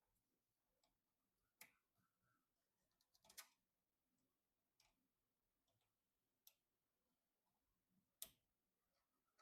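Faint, scattered clicks and taps, about five over nine seconds, from computer parts being handled and fitted during a PC assembly.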